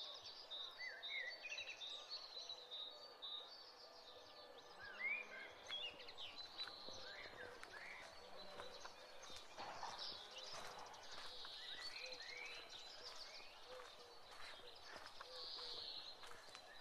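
Several small birds chirping and twittering faintly, with many short rising and falling calls overlapping one another.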